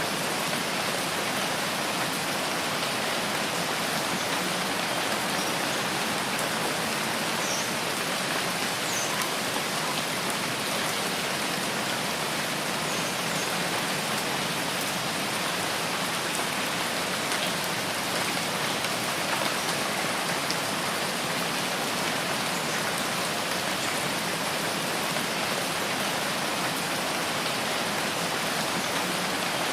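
Steady rain falling in a rain forest, an even hiss of many drops, with a few faint high chirps in the first half.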